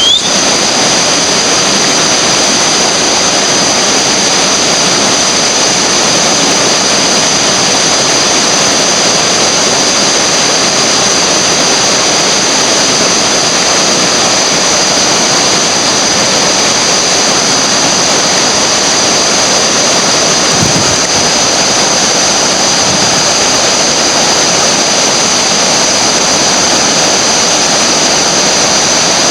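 Whitewater rushing steadily through a river rapid, a loud, even hiss of water.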